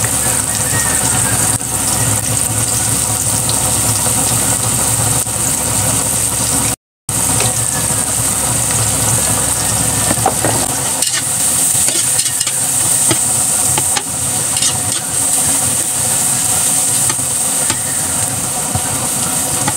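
Sliced ginger, garlic and onions sizzling in oil in a large aluminium wok while a metal spatula scrapes and stirs them: the aromatics being sautéed, garlic browning. A low steady hum runs underneath and fades about halfway.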